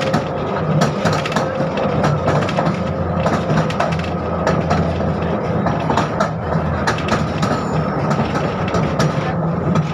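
71-605 (KTM-5M3) tram under way, heard from inside: a steady hum from the DK-259 traction motors and gearing under frequent rattles and clicks from the car body and running gear.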